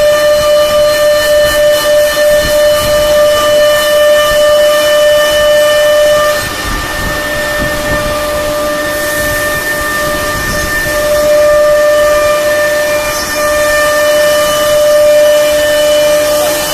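CNC router spindle running at speed: a steady high-pitched whine over the hiss of cutting wood. The whine drops away about six seconds in and comes back louder after about eleven seconds.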